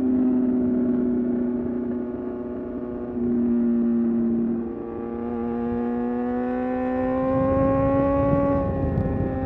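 Suzuki GSX-R750's inline-four engine pulling on the road, holding fairly steady revs, then climbing gradually from about halfway before dropping off briefly near the end.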